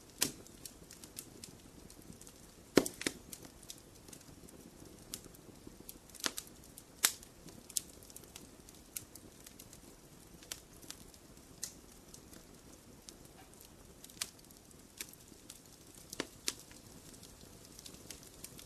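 Wood fire in a fireplace crackling, with scattered sharp pops and snaps over a low steady hiss; the loudest pops come about 3 and 7 seconds in.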